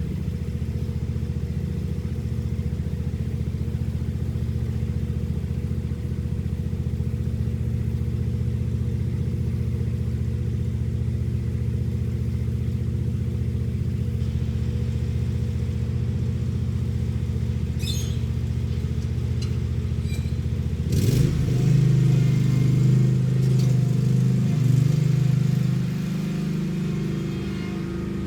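Lawn mower engine running steadily. About three-quarters of the way in, a few light clicks come first, then the engine gets louder and its pitch shifts for several seconds before settling again.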